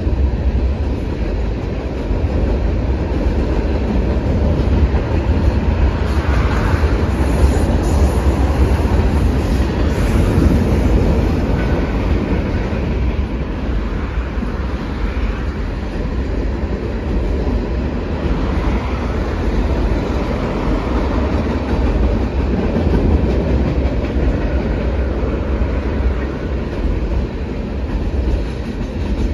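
Freight train of tank cars rolling over a steel plate-girder railway bridge: steady rumble and clickety-clack of the car wheels on the rails, with a heavy low rumble throughout.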